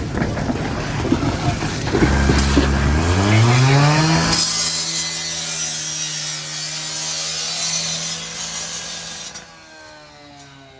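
A gas-powered power saw revs up to full speed, its engine note rising and then holding steady under a loud rasping cutting noise. The cutting noise stops abruptly about a second before the end, while the engine keeps running more quietly.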